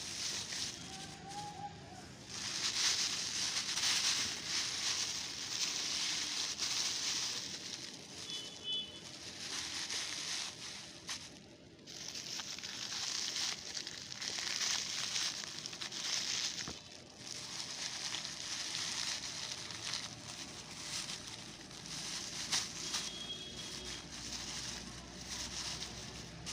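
Plastic bag and plastic litter crinkling and rustling in uneven surges as the collected garbage is stuffed into the bag.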